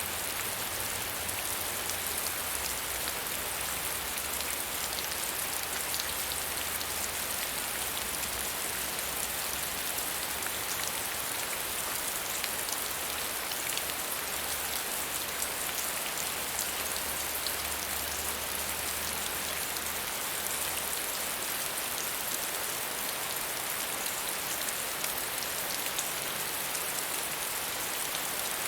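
Steady medium rainfall: an even hiss with many fine drop ticks, and a faint low rumble that fades out near the end.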